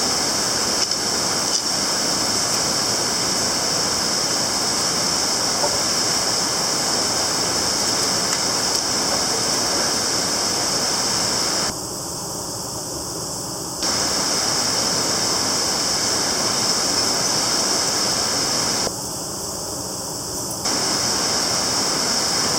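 Rushing water of a mountain stream, a steady loud hiss that drops in level twice for about two seconds, around twelve and nineteen seconds in.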